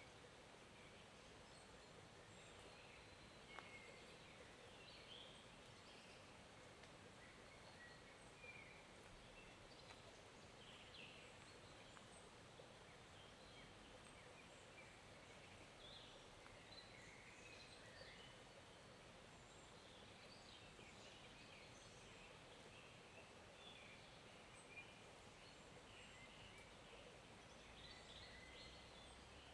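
Faint, steady flow of a small forest stream, with many short bird chirps scattered throughout and a few light ticks.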